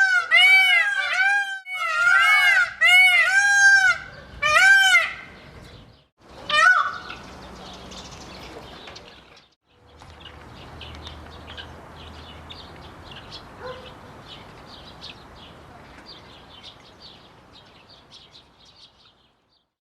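Peacock calling: a rapid series of short, loud, honking calls, about three a second, in several bursts over the first five seconds, with one more call near seven seconds. Afterwards only a faint background with light high chirping is left.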